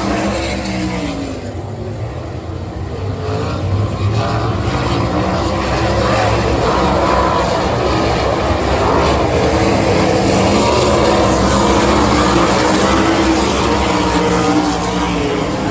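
Sprint car V8 engines running at speed on a dirt oval, their pitch rising and falling as they accelerate and lift through the turns. The sound dips about two seconds in, then builds again.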